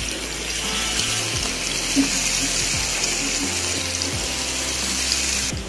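Marinated chicken tikka pieces sizzling in hot oil in a frying pan as they are laid in one after another; a steady hiss that cuts off sharply near the end.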